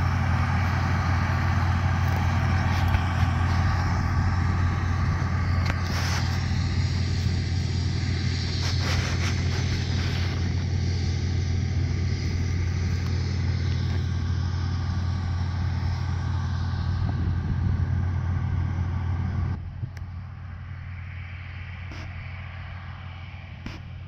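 International 1460 combine running steadily under harvest load: a constant low engine drone mixed with threshing machinery noise. About twenty seconds in, the sound drops sharply in level and stays quieter.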